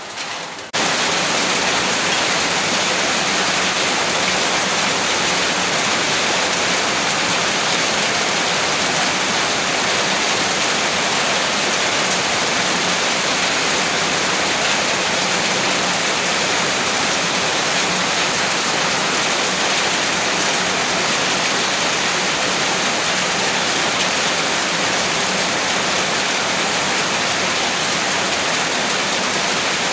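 Heavy rain pouring steadily, a dense even hiss with no let-up. Just under a second in, it cuts in abruptly over a quieter passage.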